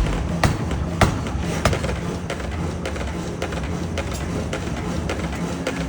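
Pneumatic forging hammer striking, a sharp blow about every half second for the first two seconds, then lighter, quicker knocks over a steady low machine hum.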